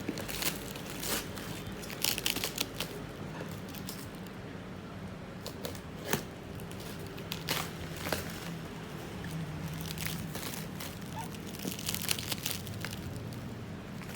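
Packaging being handled during an unboxing: plastic wrap crinkling and tearing in irregular sharp crackles, over a steady low hum.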